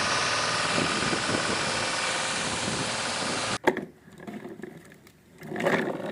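Engine-running sound effect, steady for about three and a half seconds, then cut off abruptly; light knocks and handling follow.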